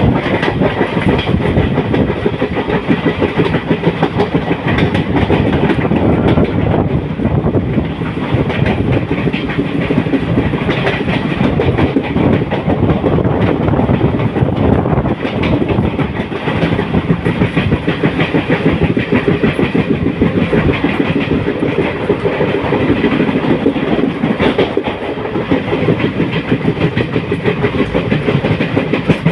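Passenger train running on the rails: a loud, steady rattle of wheels and carriage with many fine ticks, unbroken throughout.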